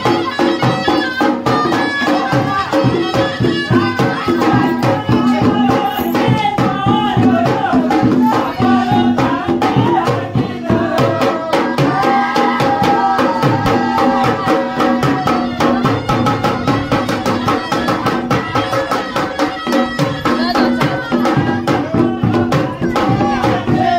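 Lively traditional Indian folk music: rapid, dense drumming and rattling percussion under a held melody line.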